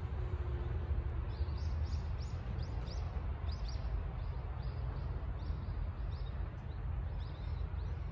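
Small birds chirping, short high calls repeating about two or three times a second from about a second in, over a steady low rumble.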